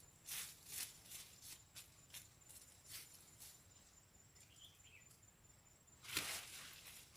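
A run of short scraping or rustling strokes, a few a second, dying away after about three seconds, then a louder rustle about six seconds in. A faint steady high tone runs beneath until then.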